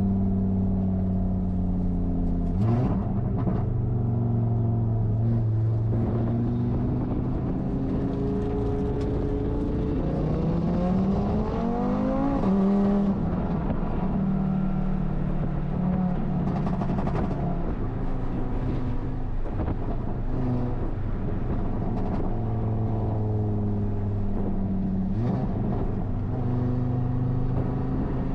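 Audi RS3 race car's engine running at warm-up pace, holding steady revs for stretches with several small steps in pitch. About ten seconds in it revs up steadily for two to three seconds, then drops sharply at a gear change.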